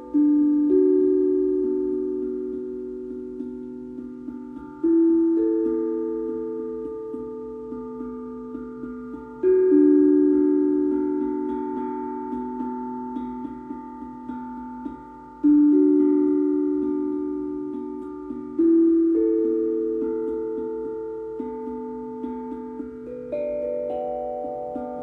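Steel tongue drum (glucophone) played slowly: notes struck in pairs about half a second apart, a new pair every four to six seconds, each ringing on and slowly fading.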